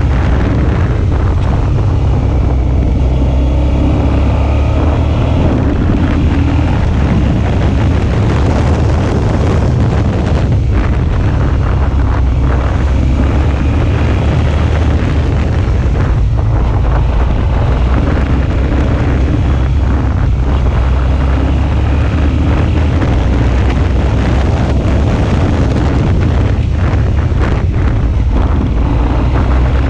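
Suzuki V-Strom 650's 645 cc V-twin engine running steadily while the motorcycle is ridden, with heavy wind noise on the microphone.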